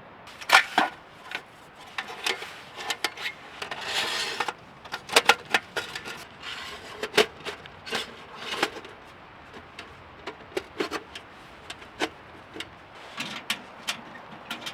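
Irregular clicks, clinks and knocks with short bursts of rustling, the sound of camp gear being handled and set down.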